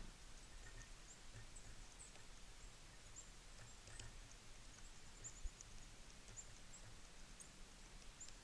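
Faint, high, short chip calls of small songbirds at a feeder, scattered irregularly, with a couple of soft taps.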